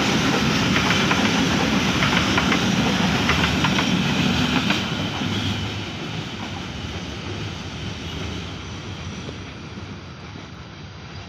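A train passing close by, its wheels clacking rapidly over the rail joints, then fading steadily as it moves away from about five seconds in.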